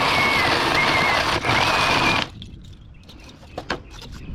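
Reciprocating saw running and cutting through the air conditioner's coil end for about two seconds, with a high wavering whine over the cutting noise, then it stops suddenly. A few light knocks and clicks follow.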